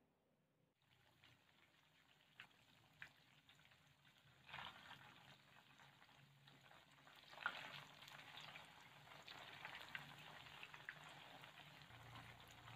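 Tofu blocks deep-frying in hot oil in a pan: faint sizzling with scattered crackles. It starts about a second in and grows busier from about four and a half seconds.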